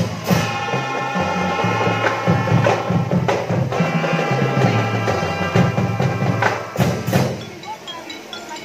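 Marching drum band playing a tune: sustained melody notes over changing low notes and drums, with a few sharp crashes, growing quieter near the end.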